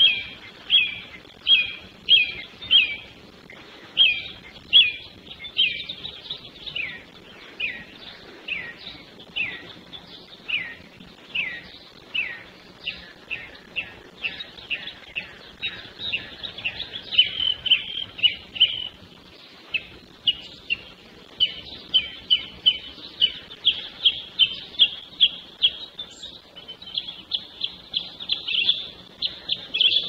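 A songbird singing a long series of repeated, downward-slurred whistled notes, about two a second at first, slowing to about one a second midway, then quickening into fast runs later on.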